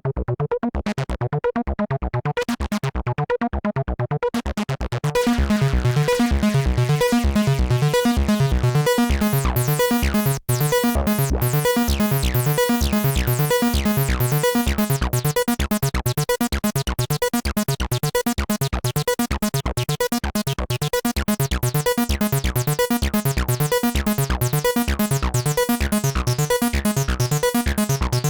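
Behringer TD-3-MO, a TB-303-style analogue bass synthesizer, playing a fast repeating sequenced bass line. About five seconds in it turns louder and much brighter, with a brief gap about ten seconds in.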